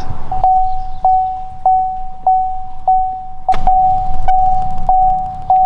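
A vehicle warning chime: a single tone repeating about every 0.6 s. A sharp thunk about three and a half seconds in, followed by a brief low rumble.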